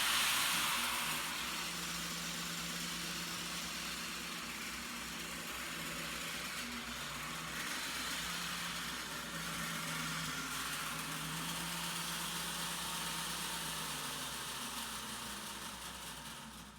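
HO-scale model locomotive's electric motor whirring and its wheels running on the track as it strains to haul two heavy coaches up a grade and cannot make it. The sound cuts off suddenly near the end.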